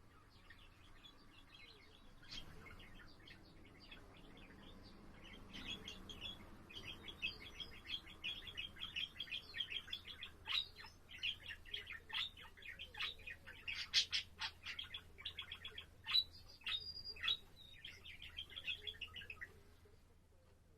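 Budgerigar warbling: a fast, chattering run of short high chirps and clicks. It grows fuller and louder a few seconds in and stops shortly before the end.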